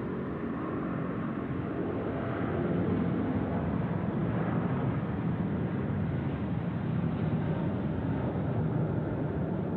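Airbus A380's four jet engines at takeoff power, a heavy, steady roar that swells over the first few seconds and then holds.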